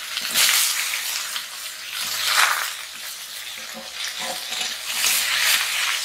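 Drumstick (moringa pod) pieces sizzling as they fry in a hot metal wok and are stirred with a spatula. The sizzle swells about three times.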